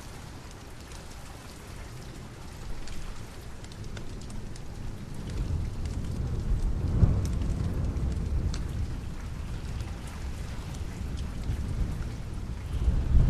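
Steady rain with a low rumble of thunder that swells about halfway through and rises again near the end; scattered faint sharp crackles run over the rain.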